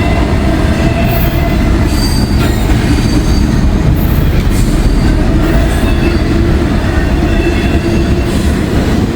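A long freight train rolling past close by: a steady loud rumble and clatter of steel wheels on the rails, with thin high wheel squeals.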